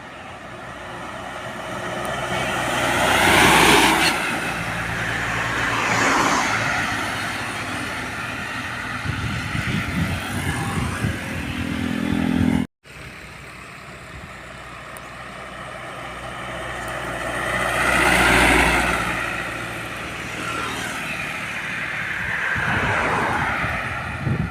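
Road vehicles, trucks among them, passing close by one after another. Each passes with a rise and fall of engine and tyre noise, the pitch dropping as it goes by. About halfway the sound cuts out abruptly for a moment, then more vehicles pass.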